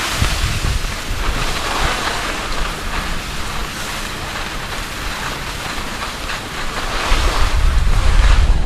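Strong wind buffeting the camera microphone while skiing, mixed with the hiss of skis sliding over wet snow. The deep rumble of the gusts builds near the end.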